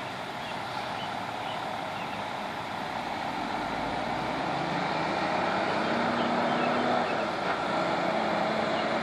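Heavy truck engine labouring up a steep muddy hill under a heavy load, growing slowly louder, with its engine note coming through more clearly in the second half.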